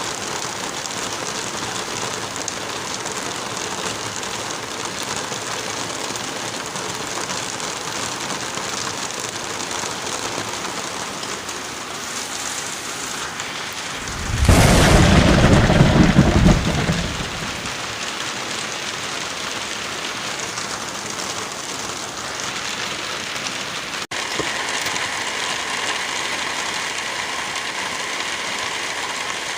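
Wind and light rain in a forest, a steady rushing hiss. About halfway through, a sudden loud low rumble lasts about two seconds and fades; near the end the sound cuts out for an instant and comes back with a slightly different texture.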